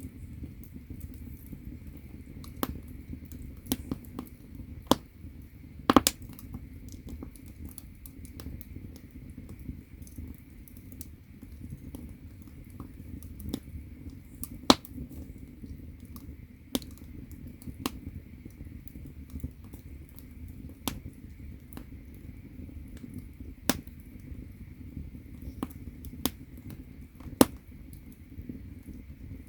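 Firewood burning in an agungi, the firebox of a Korean ondol floor-heating furnace: a steady low rumble of flame with irregular sharp crackles and pops. The loudest pops come about six seconds in, around fifteen seconds, and near the end.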